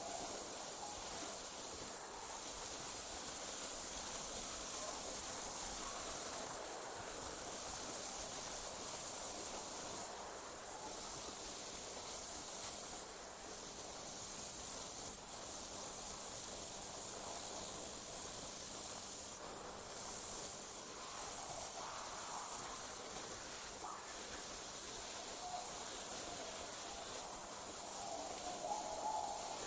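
Night insects trilling in a continuous high-pitched chorus that breaks off briefly every few seconds. A faint lower warbling sound comes in near the start and again near the end.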